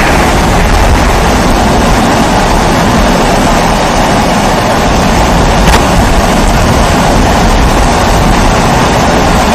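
Pressurised kerosene stove (babour) burning with a steady hum, with a faint click about six seconds in.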